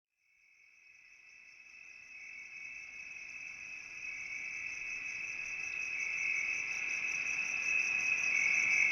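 Cricket-like insect trill, one steady high-pitched note with a fine rapid pulse, fading in about a second in and growing steadily louder.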